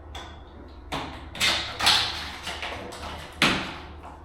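Four sharp knocks and scuffs as flooring underlayment and planks are handled and pushed into place, about a second apart early on and once more near the end.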